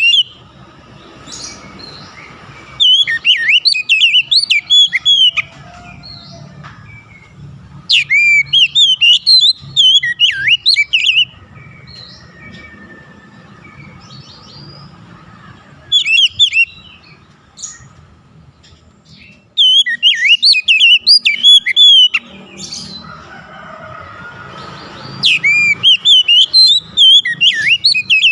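Oriental magpie-robin (kacer) singing: loud phrases of rapid, varied whistled notes sweeping up and down, each lasting a few seconds, with pauses of several seconds between them.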